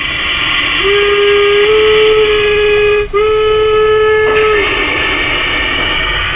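LGB G-scale Mogul model steam locomotive's steam whistle sounding two long blasts, a chord of steady tones with a very short break between them, over a steady hissing run sound.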